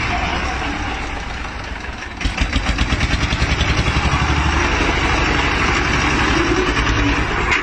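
A 30-year-old tractor's engine running with an even pulsing beat. It sags slightly about two seconds in, then picks up and runs stronger.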